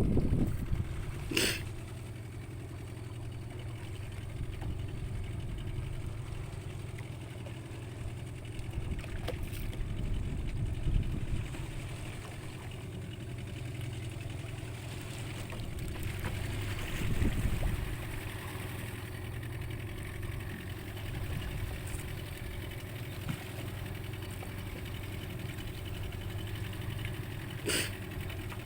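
Fishing boat's engine running steadily, a low even hum, with two sharp clicks: one about a second and a half in and one near the end.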